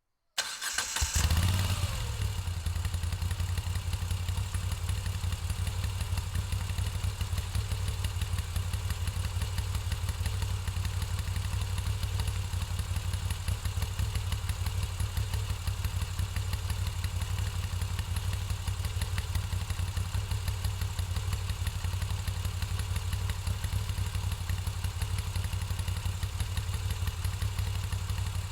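2021 Moto Guzzi V7 850's air-cooled transverse 90-degree V-twin on its stock exhaust, firing up about half a second in, flaring briefly, then settling into a steady idle.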